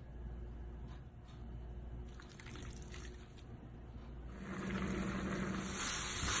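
Quiet kitchen handling, then about four seconds in, yogurt-and-spice-marinated chicken pieces start sizzling in a frying pan as they are stirred. The sizzle is the loudest part.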